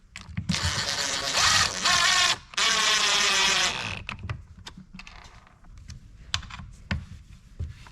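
Chainsaw parts being handled on a workbench: a loud scraping and clattering of plastic and metal for about three and a half seconds, then scattered light clicks and taps.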